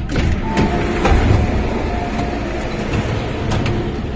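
CAF-built MTR Tung Chung line train running, heard from inside the car: a steady low rumble with a string of sharp clicks of wheels over rail joints and short high tones from the running gear, as it runs into a station.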